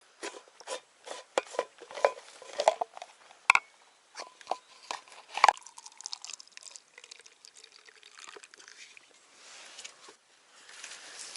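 Close rustling of tent fabric and bedding with a string of sharp clicks and crackles as people settle down to sleep inside a tent, fading after about five seconds to a faint steady hiss.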